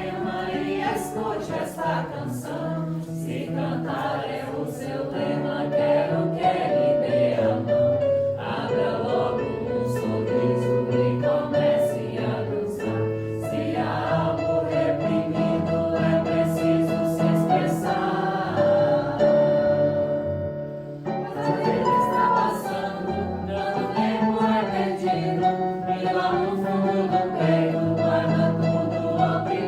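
A group singing a Santo Daime hymn in marcha time, many voices together with instrumental accompaniment, with a brief drop in loudness about two thirds of the way through.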